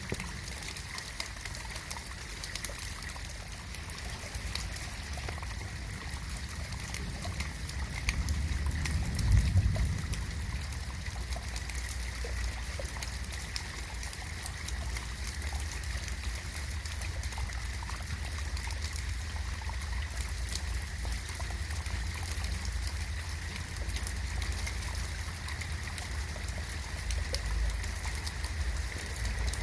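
Steady rain falling and dripping, an even hiss dotted with small drop sounds. About eight seconds in, a low rumble swells and fades again a couple of seconds later.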